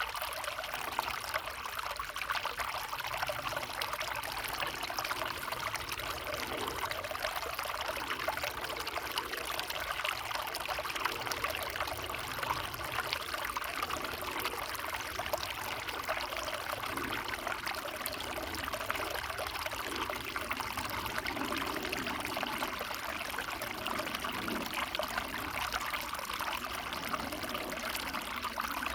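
A small forest stream trickling and babbling over stones, a steady even rush of running water.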